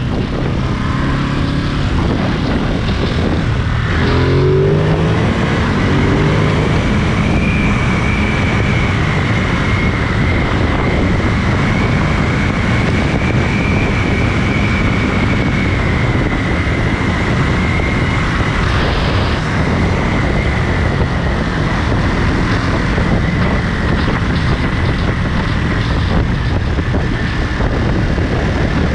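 Ducati Monster 937's 937 cc L-twin engine running under way, its revs rising briefly about four seconds in, then holding steady at speed amid a steady rush of road and wind noise.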